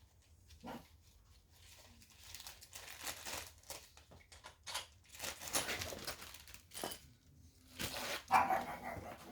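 A pug barking several times at intervals, with scattered light clicks in between.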